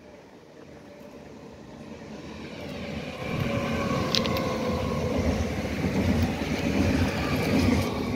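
Electric multiple unit passenger train approaching and then passing close by: a rumble of wheels on the rails that grows and becomes loud about three seconds in, with steady whining tones above it and a sharp click about four seconds in.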